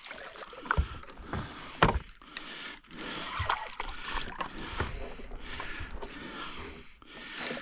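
A hooked carp splashing and thrashing in the water as it is brought into a landing net, with uneven sloshing and scattered sharp knocks.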